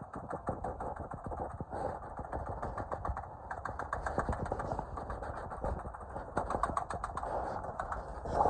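Coin-operated Spider-Man helicopter kiddie ride running: a rapid, irregular mechanical clatter over a low rumble.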